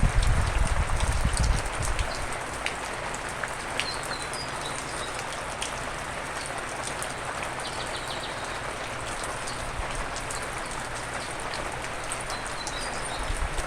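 Steady rain falling, with individual drops ticking through it. A low rumble fades out about two seconds in, and a few short high chirps come through now and then.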